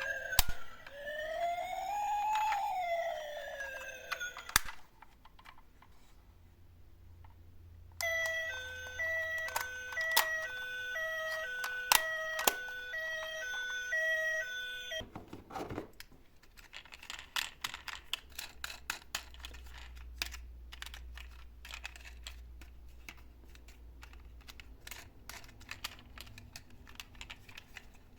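Emergency siren sounds: a wailing siren sweeping up and down that cuts off about four and a half seconds in, then after a short quiet gap a two-tone hi-lo siren alternating between two notes for about seven seconds, in the style of an ambulance. After that comes a long run of many small clicks and taps, fast and uneven.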